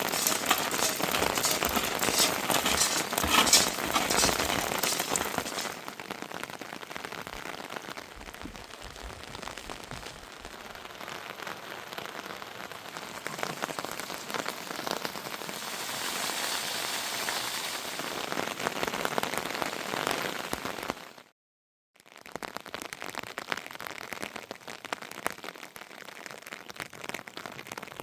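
Heavy rain falling, dense with fine pattering, loudest for about the first six seconds and then lighter and steadier. It cuts out completely for a moment about 21 seconds in, then resumes.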